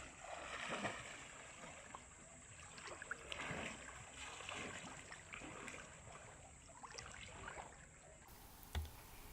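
Faint water ambience, like sea or boat sounds, with a soft thump near the end.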